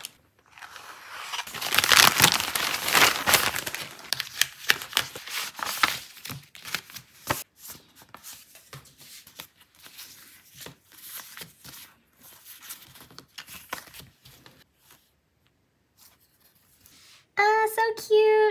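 A paper mailer envelope being slit open with a utility knife and torn, loudest in the first few seconds. This is followed by scattered crinkling and rustling as plastic-sleeved sticker sheets are taken out and handled.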